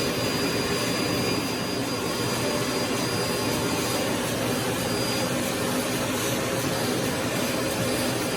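Aspiron canister vacuum cleaner running steadily: a constant rush of suction airflow with a thin, steady high whine.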